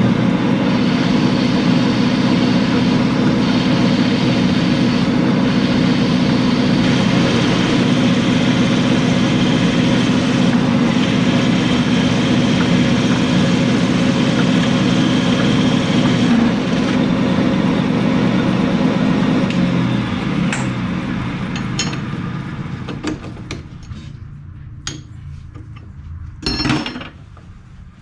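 A metalworking machine tool running steadily under power, then winding down after about twenty seconds as it is switched off. A few light metallic clinks and a louder knock follow near the end.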